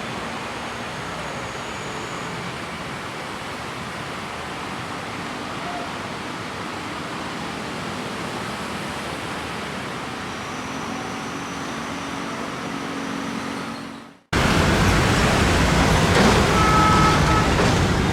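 Steady outdoor vehicle and traffic noise. About fourteen seconds in it fades out quickly and cuts abruptly to a louder stretch of vehicle noise with a faint thin tone in it.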